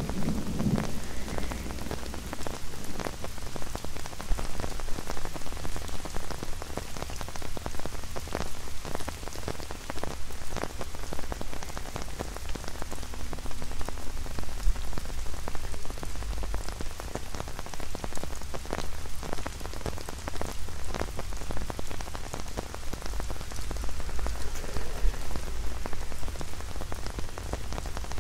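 Rain falling on an umbrella held close overhead: a steady patter with many separate drops tapping sharply on the canopy, over a low rumble.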